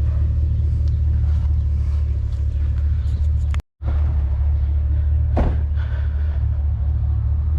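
Truck engine idling steadily, a low even drone. The sound breaks off for an instant about halfway through.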